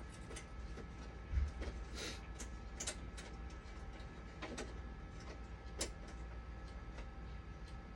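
Scattered light clicks and knocks, typical of tools and small parts being handled, over a steady low hum.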